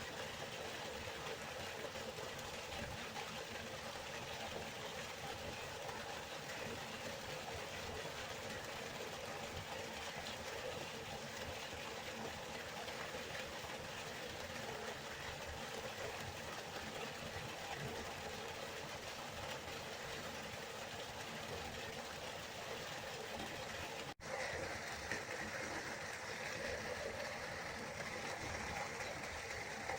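River water flowing steadily. About 24 seconds in there is a momentary dropout, after which the flow sounds a little brighter.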